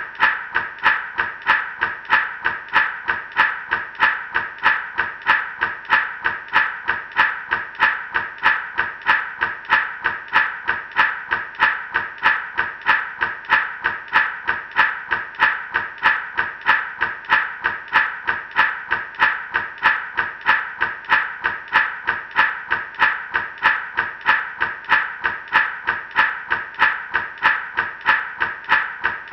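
Gourd rattle shaken in a steady, even rhythm, about two shakes a second, the seeds inside rattling against the dried gourd shell.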